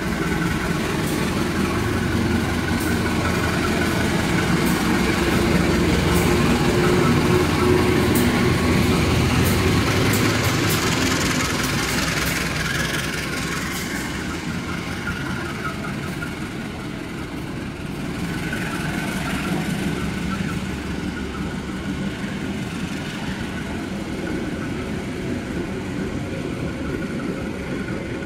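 Indonesian CC 203 diesel-electric locomotive passing through the station at speed, its engine loudest over the first ten seconds or so. It is followed by a string of parcel vans rolling past, with their wheels clicking over the rail joints, and the noise eases after about fourteen seconds.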